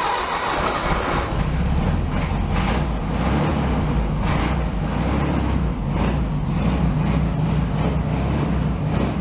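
1964 VW Beetle's air-cooled flat-four engine running shortly after a semi-cold start, a steady low rumble that grows fuller about a second in.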